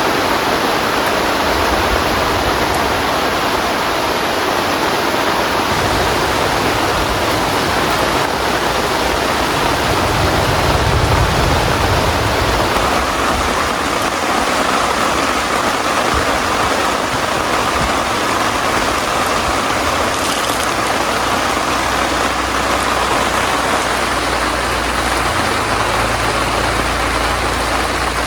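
Heavy rain falling steadily, a dense even hiss. A low rumble swells underneath about ten seconds in and again over the last several seconds.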